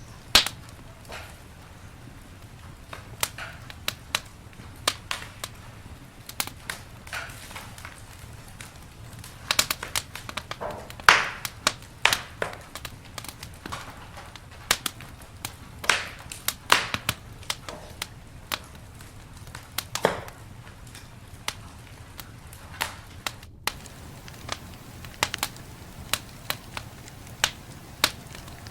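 Campfire burning, the wood crackling with irregular sharp pops and snaps over a steady low background rumble.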